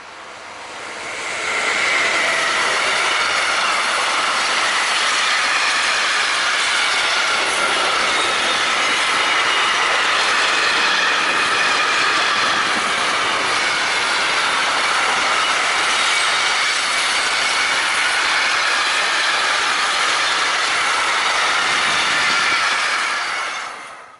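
Long container freight train hauled by an electric locomotive passing close by: steady loud rolling of wagon wheels on the rails with a high steady wheel whine, building up over the first two seconds as the train arrives and cutting off abruptly near the end.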